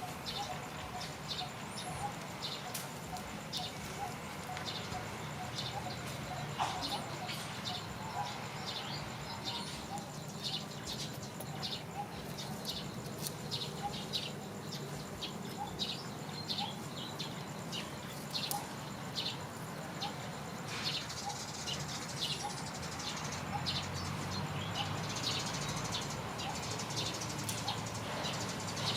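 Small birds chirping over and over in short, sharp notes, over a steady low background hum.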